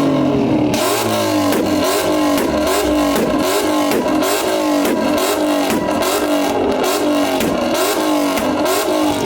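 Car engine revved again and again in quick blips, its pitch rising and falling about one and a half times a second.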